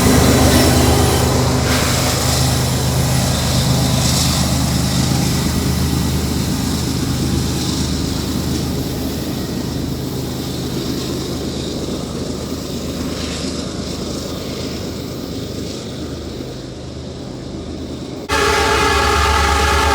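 Freight train rolling past, its rumble and wheel noise slowly fading away. About 18 seconds in, a locomotive's air horn starts abruptly and is held to the end.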